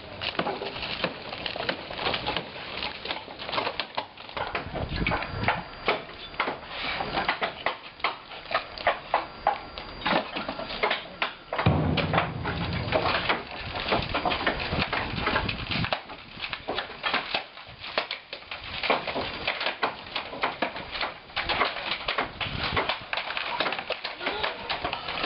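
Demolition work: a steady run of irregular knocks, bangs and clatter of material being broken apart, with a low rumble for a few seconds about halfway through.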